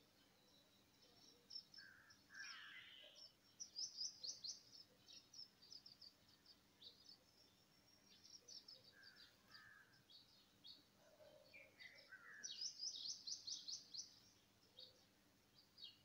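Faint bird calls: rapid trains of short, high chattering notes, busiest about 4 s in and again near 13 s, with a few harsher, lower calls in between.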